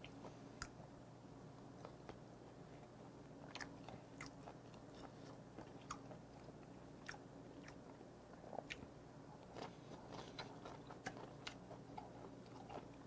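A person chewing mouthfuls of tomahawk steak, faint and close to the microphone: scattered soft wet mouth clicks.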